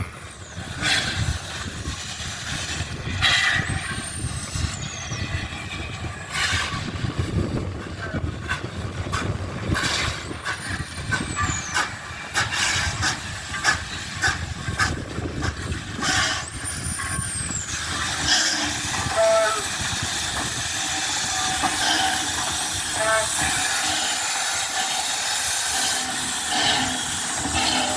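Steam locomotive hissing steam, with irregular sharp exhaust beats and three brief high squeals that rise and fall. About two-thirds in, the beats give way to a steadier hiss.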